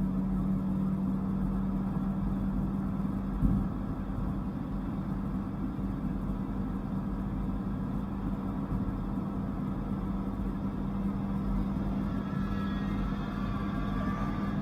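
Dodge Viper GTS's V10 engine droning steadily at cruise under road noise, with a brief knock about three and a half seconds in and the pitch starting to climb near the end as it revs up.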